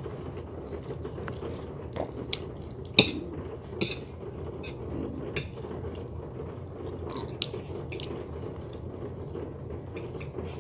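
Scattered clicks and knocks of kitchen handling, about a dozen, the loudest about three seconds in, over a steady low background hum.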